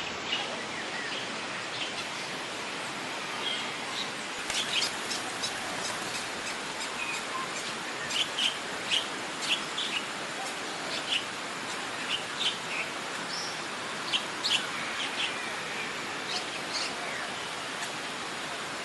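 Birds chirping with many short, high calls, thickest in the middle, over a steady hiss.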